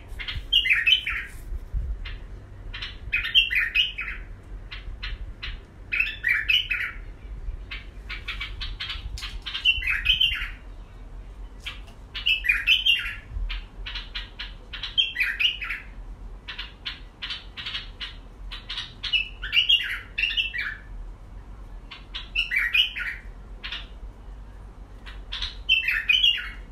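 A bird repeating a short chirping call about every three seconds, with quick ticks in between.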